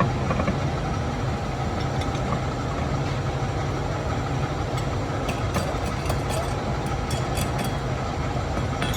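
A steady low machine drone, with scattered light metallic ticks over it and a sharp click near the end.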